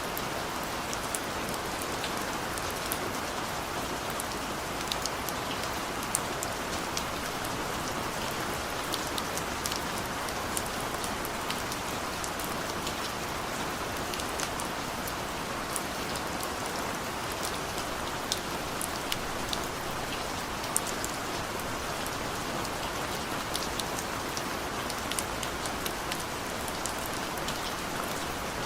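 Steady rain falling, an even hiss with many individual drops tapping sharply and irregularly close by.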